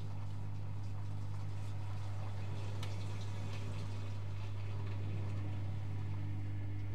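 Privileg Multispar 5110 front-loading washing machine running its 75 °C boil wash, water moving in the drum over a steady low hum.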